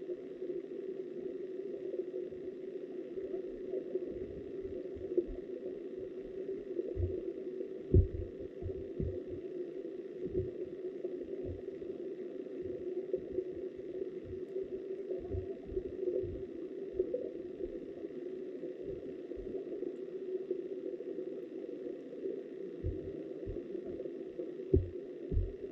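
Flowing river water heard through an underwater camera: a steady muffled rush with frequent dull low thumps at irregular intervals, the loudest about eight seconds in.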